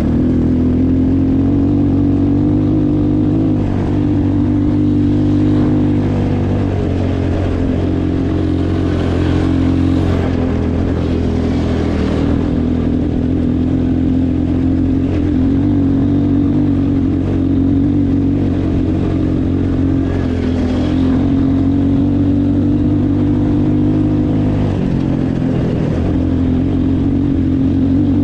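Motorcycle engine running at a steady speed, its pitch rising and dipping only slightly.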